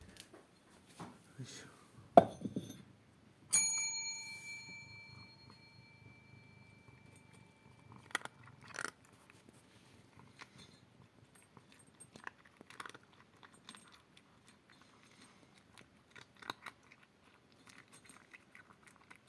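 A Maine Coon cat eating dry food, with scattered soft crunches and clicks. About three and a half seconds in, a metal object gives one ringing tone that fades over a few seconds.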